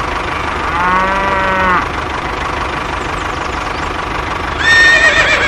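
Steady background noise with two animal calls: a low, drawn-out call from about one second in, lasting under a second, then a higher call that falls in pitch near the end.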